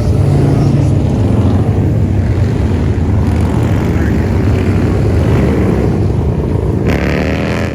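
Engines of classic cars running as they drive slowly past one after another in a line, a loud steady low rumble.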